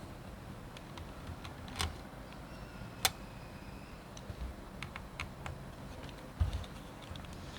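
Scattered small clicks and taps of a DSLR camera body and a small screwdriver being handled during disassembly, with one sharp click about three seconds in and a dull knock a little past six seconds.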